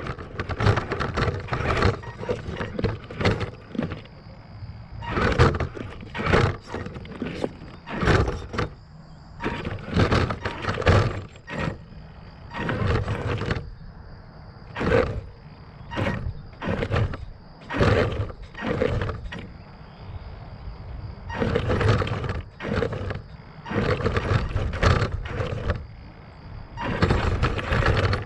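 Arrma Granite 4x4 radio-controlled monster truck driven in short throttle bursts, roughly one or two a second, the motor and tyres surging and dropping each time, over a faint steady high tone.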